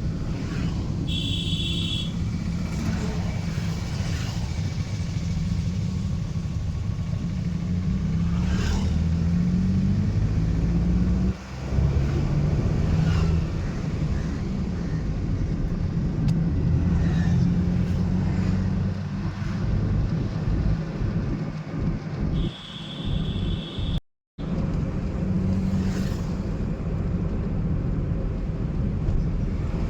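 Car being driven: steady engine and road rumble, the engine note rising and falling through the drive. A vehicle horn beeps briefly about a second in and again near three-quarters through, and the sound cuts out for a moment just after the second beep.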